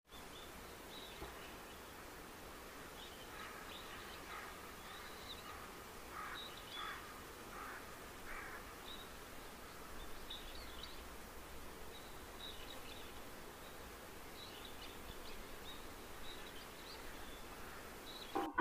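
Faint background with scattered distant birds chirping and calling now and then.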